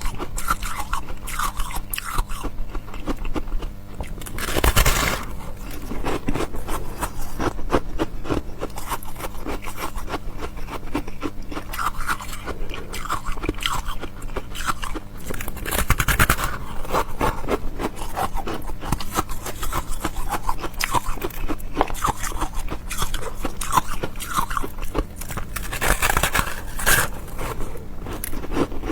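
Close-miked chewing of ice: a dense run of crisp cracks and crunches, with louder bites about five, sixteen and twenty-six seconds in.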